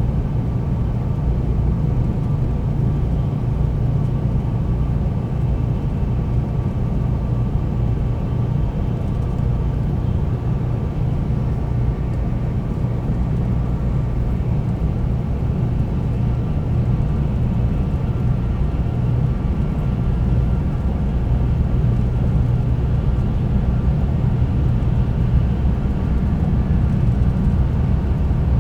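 Cabin running noise of a Tokaido Shinkansen 300 series train at speed: a steady low rumble from the wheels and track, with a faint steady whine above it. It grows slightly louder near the end.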